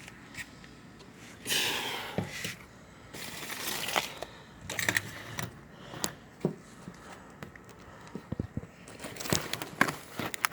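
Irregular rustling, scraping and small clicks of handling, with no engine running.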